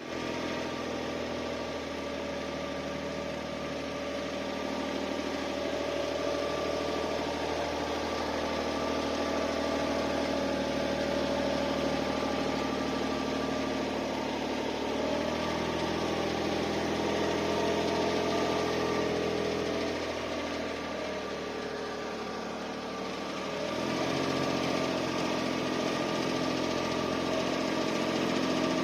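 Suzuki Spacia (MK53S) kei car driving at low speed from a cold engine, its three-cylinder engine running with an abnormal noise whose source the owner cannot place. The engine note shifts in pitch several times as speed changes, while a steady high tone holds throughout.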